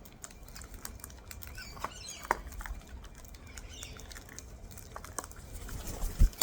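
Cockatoos cracking and crunching seed: a scattered run of small, sharp clicks with a few faint bird calls. A loud, low thump comes near the end.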